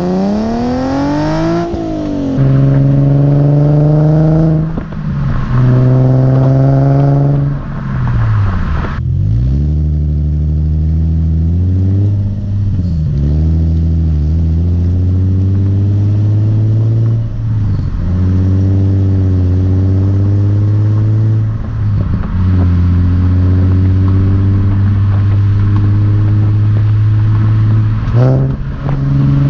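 Nissan 370Z's 3.7-litre V6 breathing through an aFe Takeda cat-back exhaust and a STILLEN long-tube intake, driven on the road. In the first nine seconds or so it climbs in revs and drops back several times through quick upshifts, then cruises at steady revs with a few brief lifts of the throttle.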